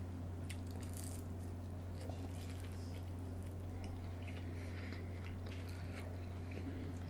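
Quiet close-miked eating sounds: chewing with small, scattered mouth clicks over a steady low hum.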